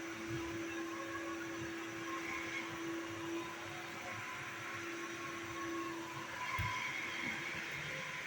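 Vacuum cleaner running steadily: an even rushing noise with a constant hum.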